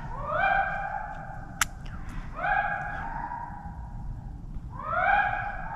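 Deer hounds baying: three long, drawn-out bawls about two and a half seconds apart, each sliding up quickly and then held. A single sharp click about a second and a half in.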